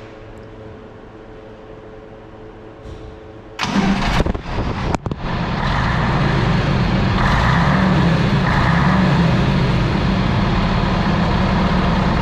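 The Scania BR111 bus's diesel engine is started: about three and a half seconds in it cranks and catches, then runs steadily. It is run briefly so the transmission pump turns with the transmission drain plug open.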